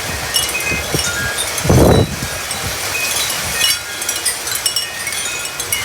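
Wind chimes ringing irregularly, stirred by gusty storm wind, with one strong gust buffeting the microphone about two seconds in.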